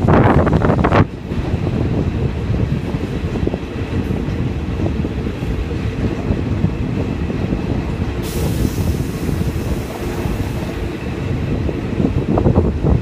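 Passenger train running along the track, heard from an open coach window: a steady rumble of wheels on rail. Wind buffets the microphone loudly at the start, stops abruptly about a second in, and returns near the end. A high hiss rises about eight seconds in and lasts a couple of seconds.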